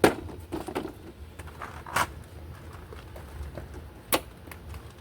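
Sharp clicks and knocks from hands working parts inside a car door. The loudest comes right at the start, with others about two and four seconds in and smaller ticks between.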